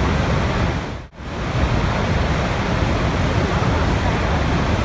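Steady rushing water, a dense even noise, that dips sharply almost to silence for a moment about a second in before it swells back, like a splice in a loop.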